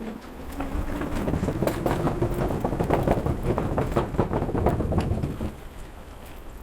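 Tuttio ICT 2.0 electric dirt bike accelerating over rough ground: the geared hub motor's whine rises in pitch, with rattling and knocking from the bike and a low rumble of wind and tyres. It eases off about five and a half seconds in.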